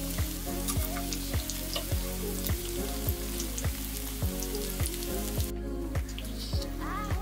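Shredded sweet potato pancakes sizzling and crackling as they fry in oil in a nonstick pan, over background music with a steady beat. The sizzle stops about five and a half seconds in, and the music carries on.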